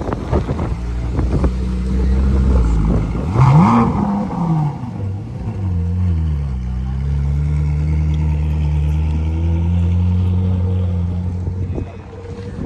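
Car engine running, with a quick rev about three and a half seconds in that rises and falls back, then a steady drone that drops away near the end.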